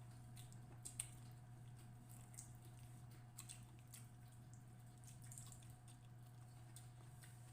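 Near silence with faint eating sounds: scattered soft clicks and squishes of chewing and handling food, over a steady low electrical hum.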